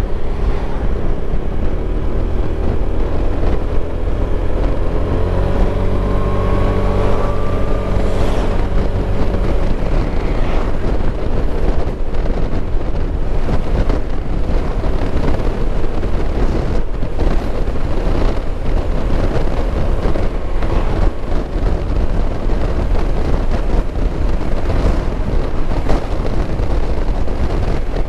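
Motorcycle engine running while riding, with wind buffeting the microphone; the engine note rises for a few seconds about a fifth of the way in as it accelerates.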